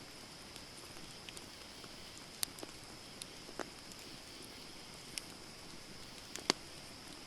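Wood campfire burning: a soft steady hiss under scattered sharp crackles and pops, the loudest a quick pair of pops near the end.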